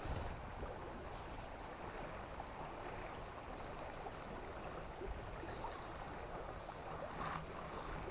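River water flowing steadily, with a low rumble under the running water.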